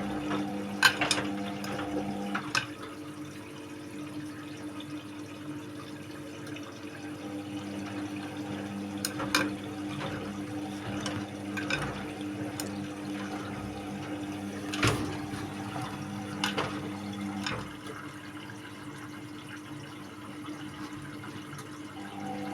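Indesit WIU81 washing machine partway through its quick 30° wash: water running and sloshing in the drum over a steady low hum, with scattered sharp clicks and knocks.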